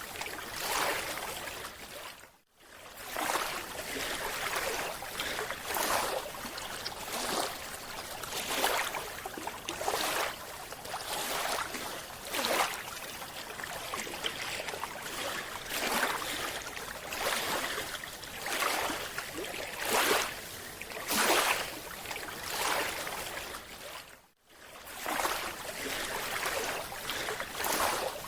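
Sea water rushing and sloshing in uneven surges every one to three seconds. It drops out briefly twice, about two seconds in and near the end.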